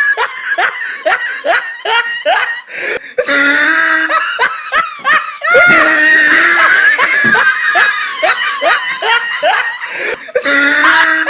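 Loud hearty laughter: a quick run of short 'ha-ha' bursts, then longer held peals. The same stretch seems to repeat, like a looped laughter sound effect.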